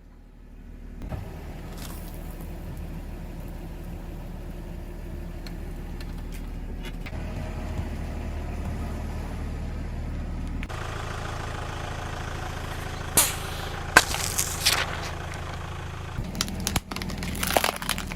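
Car engine running at low speed, its note shifting a couple of times, then a series of sharp cracks and crunches from about two-thirds of the way in, as objects are crushed under a tyre.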